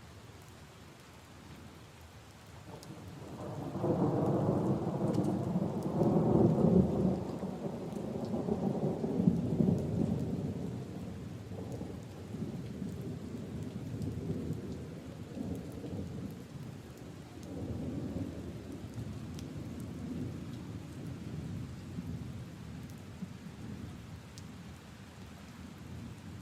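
Steady rain falling on puddles and leaves, with a long roll of thunder that builds about three seconds in, rumbles loudest for several seconds, and fades, then rolls again more softly past the middle.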